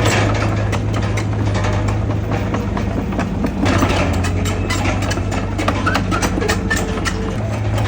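Komatsu crawler bulldozer's diesel engine running steadily under a low hum, with a rapid, irregular clatter of clanks and clicks from its steel tracks and undercarriage.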